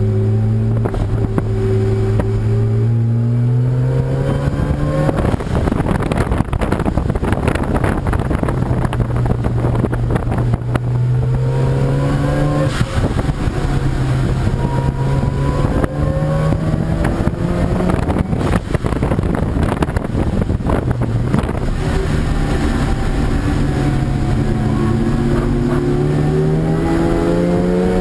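Race car engine running hard through a lap. Its pitch climbs as it accelerates, breaks off for gear changes or braking several times, then climbs again, with a rush of noise underneath.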